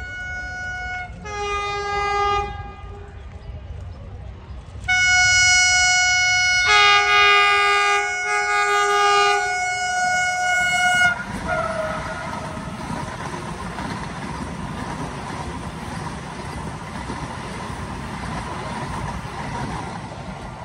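Vande Bharat Express (Train 18) electric trainset sounding its horn on approach: a short high note, then a lower one, then a long loud blast on both notes from about five seconds in. After that comes the steady rushing rumble of the train running past close by.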